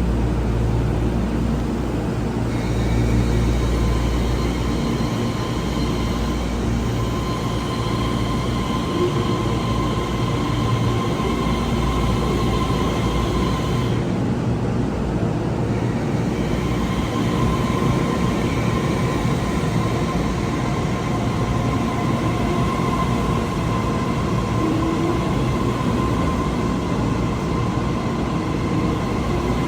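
Taiwan Railway train running on the track: a steady rumble of wheels on rail with a steady high whine over it, which drops out for a couple of seconds about halfway through.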